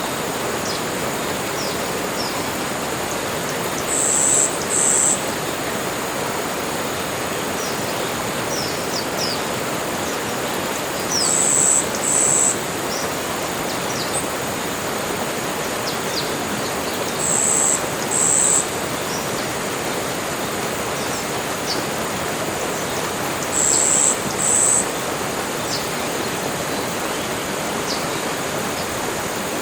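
Tropical forest soundscape: steady rushing of running water with scattered short bird chirps. A high two-part call rings out four times, about every six to seven seconds.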